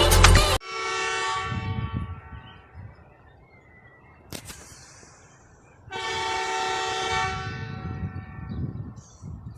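Diesel locomotive's multi-tone air horn sounding two long blasts about five seconds apart, with a single sharp click in between.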